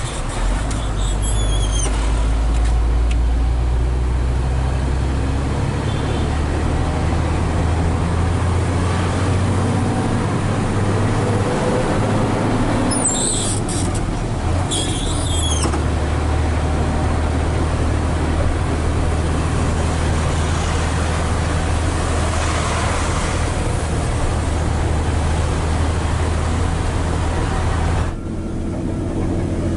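Hino 500 FM320TI tractor truck's diesel engine running steadily under load, heard from inside the cab as a low drone. There are short high-pitched squeals about a second in and twice more around halfway. The engine note drops suddenly near the end.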